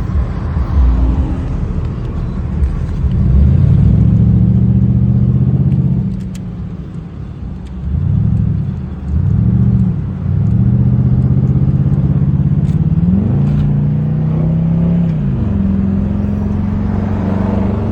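Car engine pulling under acceleration while driving, its pitch rising and then dropping several times before holding steady.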